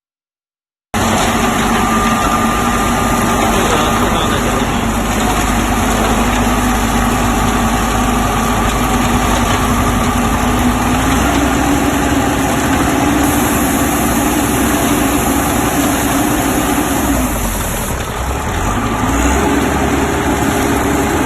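Self-loading concrete mixer truck's engine running steadily. Its pitch steps up about halfway through, then dips briefly near the end and picks up again.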